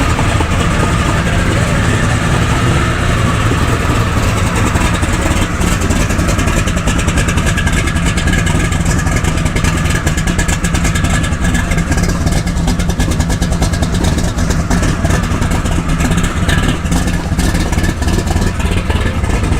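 An engine running steadily with a continuous low rumble.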